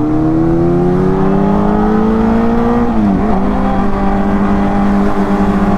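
Motorcycle engine under acceleration, its pitch rising steadily for about three seconds. It dips briefly at a gear change, then holds steady at a lower pitch.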